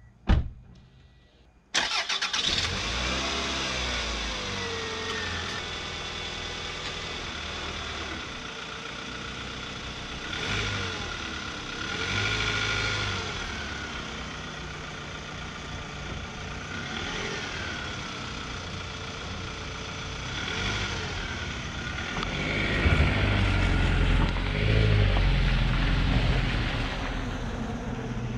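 Replacement engine in a 2002 Toyota RAV4 running, starting abruptly about two seconds in after a sharp click, with its pitch rising and falling and several swells in loudness. It gets louder and deeper for a few seconds near the end.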